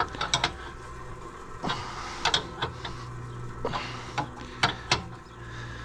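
Wrench clicking and knocking against a metal fitting as it is given another turn to tighten it: about ten irregular sharp clicks, with a steady low hum underneath.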